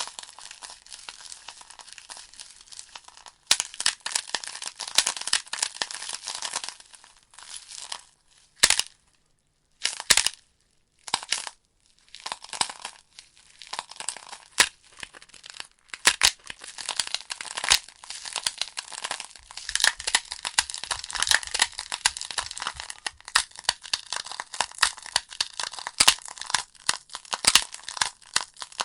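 Logs burning in a fireplace, crackling and popping in a dense, irregular patter with scattered sharper snaps. About nine to twelve seconds in, the crackle briefly thins out almost to silence, then picks up again.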